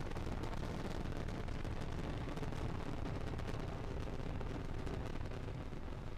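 Falcon 9 first-stage rocket engines firing during ascent: a dense, steady crackling rumble.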